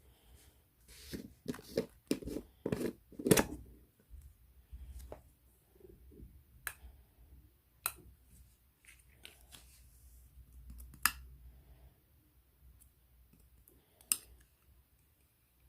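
Irregular clicks and knocks: a cluster of louder knocks between about one and four seconds in, then single sharp clicks every few seconds.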